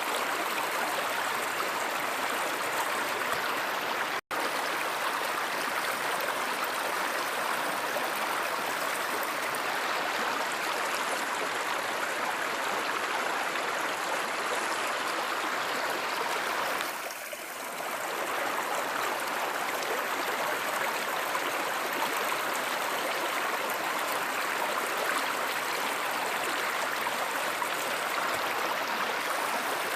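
Steady rushing of a flowing stream. The sound cuts out for a split second about four seconds in and dips briefly just past halfway.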